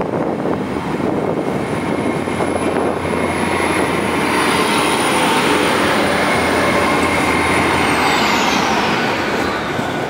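GWR Intercity Express Train running past the platform: a loud, steady rumble of engine and wheels, with a thin high whine that holds steady, then slides down in pitch over the last couple of seconds.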